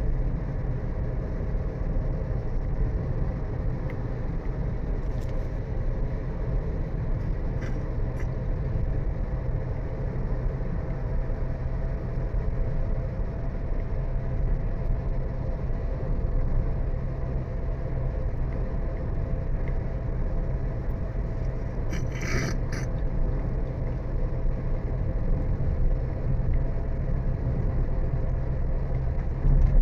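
Steady low rumble of a vehicle driving on the road, engine and tyre noise with no break. About two-thirds of the way through, a short high-pitched sound cuts in for under a second.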